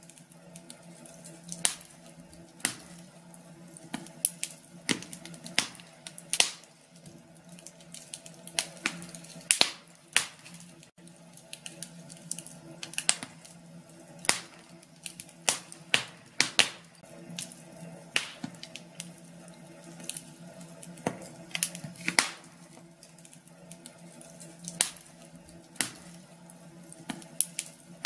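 Wood fire in a fireplace crackling, with irregular sharp pops and snaps about once or twice a second over a faint steady low hum.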